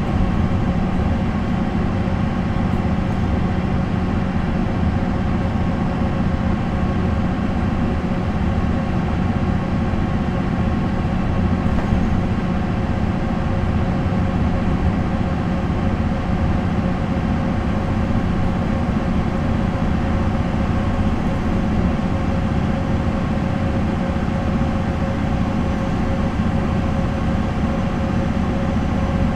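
MAN NL 263 city bus's MAN D28 inline-six diesel engine running at an even, unchanging pitch.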